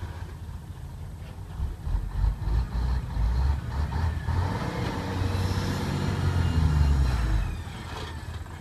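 A vehicle engine running, growing louder toward a peak and then fading near the end.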